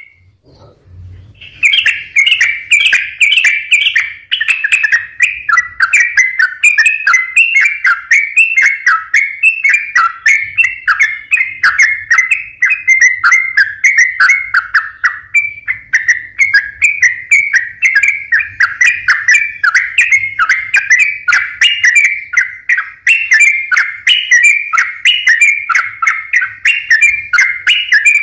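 Sooty-headed bulbul (trucukan) singing in full, non-stop song: a fast, unbroken string of short chattering notes. It starts after a short silence at the very beginning and keeps going without a break.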